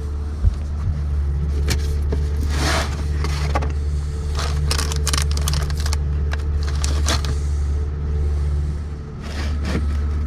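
Shanty boat's motor running with a steady low drone, with scattered clicks and scraping noises over it.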